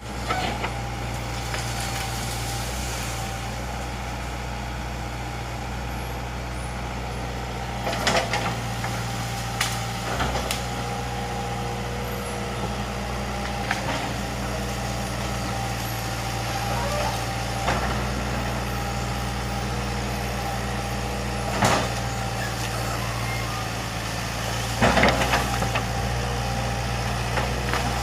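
Excavator's diesel engine running steadily at work, with a few sharp knocks from the machine about 8, 10, 22 and 25 seconds in, the last the loudest.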